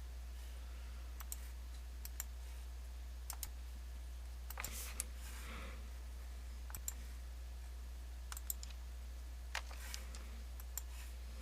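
Scattered clicks of a computer mouse and keyboard, about a dozen single clicks spread through the stretch, over a steady low hum.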